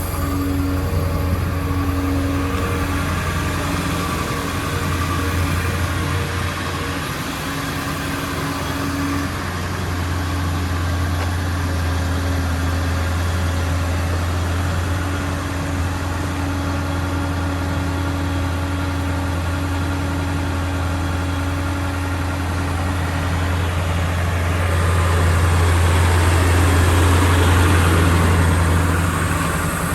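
Ford 7.3L Powerstroke V8 turbodiesel running at a steady idle, growing somewhat louder for a few seconds near the end.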